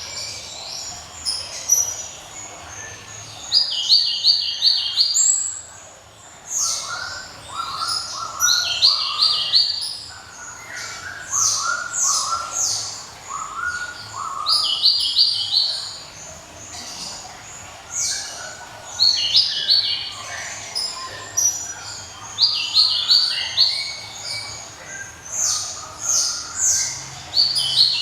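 Glatik songbird singing loud, ringing phrases: short runs of four or five quick high notes, repeated every few seconds, with some lower-pitched runs of notes between them.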